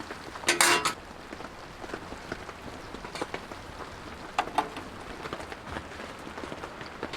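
Camp kitchenware clinking and clattering: a louder clatter about half a second in, another about four and a half seconds in, and small ticks between, over a steady patter of rain.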